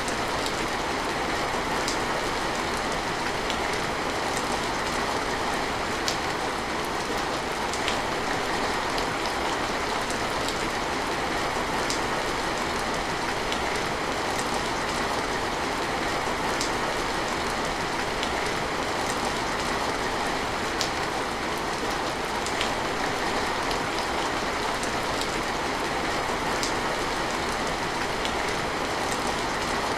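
Steady rain falling, with scattered drops ticking now and then over the even hiss.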